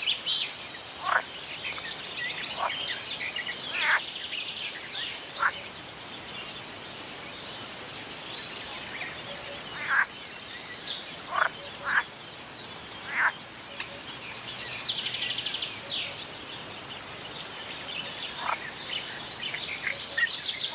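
Frogs croaking at a lake in about ten short, sharp calls spaced unevenly, over a steady background of high buzzy trills and bird calls that swells twice.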